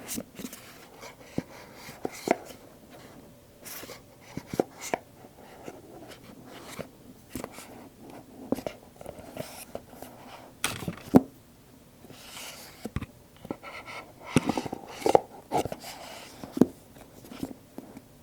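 Apple product boxes (stiff cardboard iPhone and AirPods boxes) handled close to the microphone: irregular taps and clicks of fingers and lids on the boxes, with stretches of scratchy rubbing about twelve and fifteen seconds in.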